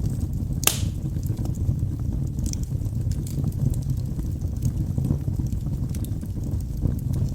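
Wood logs burning in a fireplace: a steady low rumble of the flames with scattered crackles and pops, and one loud sharp pop under a second in.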